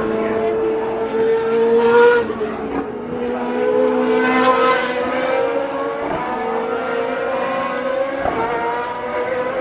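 GP2 race cars' V8 engines at high revs as several cars pass at speed, with the two loudest passes about two and four and a half seconds in.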